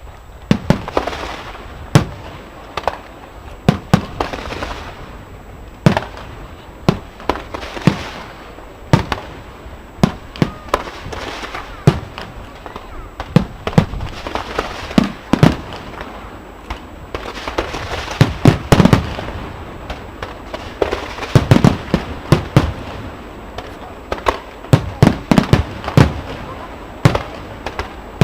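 Fireworks display: aerial shells bursting in an irregular series of sharp bangs, sometimes several in quick succession, with the bursts thickest about two-thirds of the way through.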